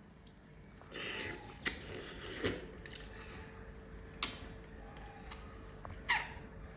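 Eating sounds at a table: scattered sharp clicks and short crunchy rustles, with a faint steady hum underneath.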